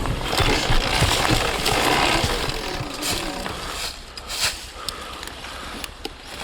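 Surron Ultra Bee electric dirt bike with a TORP TM50 Pro motor on a wet forest trail: drivetrain whine with knocks and rattles from the chain and suspension, easing off about three seconds in to a quieter stretch with a few scattered clicks.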